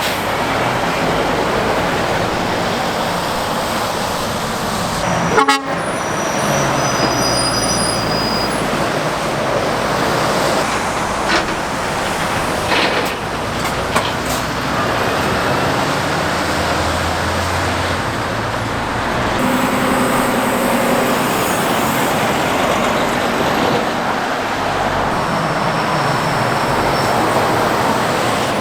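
Continuous road traffic noise as lorries and cars pass at speed, a steady rush of tyres and engines. There is a short horn-like toot about twenty seconds in.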